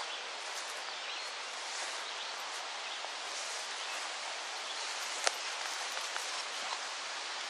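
Steady rustle of leaves stirred by a breeze, with one sharp click a little past five seconds in.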